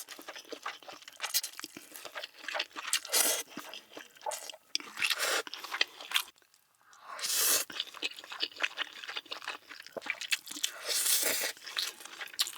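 A person eating seafood close to the microphone, with crunching and chewing in quick, uneven bursts and a short pause about six and a half seconds in.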